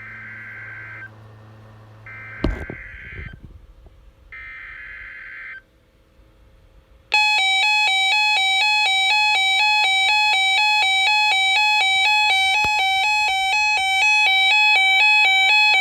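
Weather-radio alert sequence: three short bursts of buzzy digital data tone (the SAME header that opens an alert), then a loud electronic alarm that warbles rapidly between two pitches for about ten seconds before cutting off. It is the Reecom weather radio receiver sounding its alert for an incoming tornado watch. A sharp click comes about two and a half seconds in.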